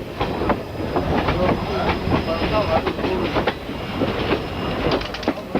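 Bagh Express passenger train rolling out of the station, its wheels clicking irregularly over rail joints and points with a steady rumble underneath.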